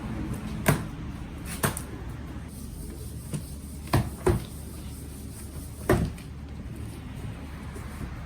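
A handful of sharp, irregular metal knocks and clunks as an exhaust muffler is handled, over a steady low hum.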